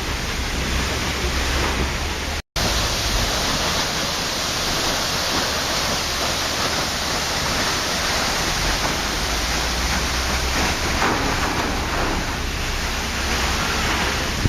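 Waterfall rushing in a steady, even roar of water. It cuts out for a split second about two and a half seconds in.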